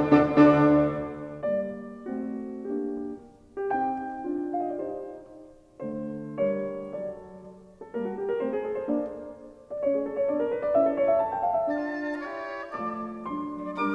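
Background music: a piano playing slow classical-style phrases, with short breaks between them.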